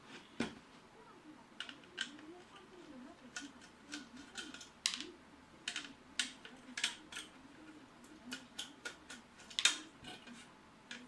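Irregular small clicks and taps from hands handling the parts of a partly dismantled PC ATX power supply, about one to three clicks a second, the loudest near the end.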